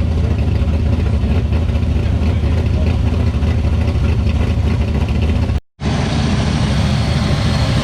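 Ford XW Falcon GT's 351 V8 idling steadily with an aggressive aftermarket camshaft, loud and low. The sound drops out for a split second about three quarters of the way through, then the same idle carries on.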